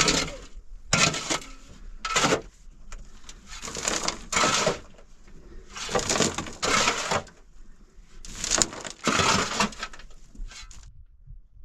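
A series of crunching strokes, about one a second, some coming in quick pairs, stopping shortly before the end.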